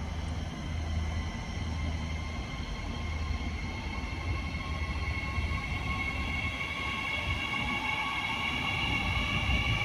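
A train running, with a low rumble and a set of steady whining tones that grow louder toward the end.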